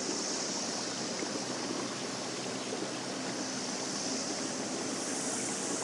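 Steady rushing of water along a moving fishing kayak's hull.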